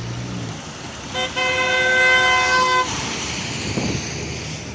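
Truck horn sounding one long steady blast of about a second and a half, starting about a second in with a brief blip just before it, over passing road traffic and a truck engine that fades early on.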